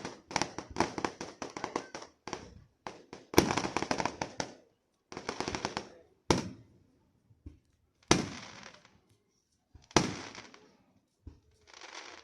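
Fireworks going off: rapid strings of crackling pops for the first few seconds, then several single sharp bangs, each trailing off over about a second.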